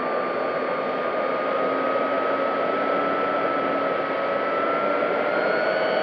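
Electric motor and propeller of an FMS P-40B Warhawk 1400mm model plane running steadily in flight, recorded by a camera on board: a steady whine over a strong rush of wind noise. The whine's pitch drifts slightly, rising a little near the end.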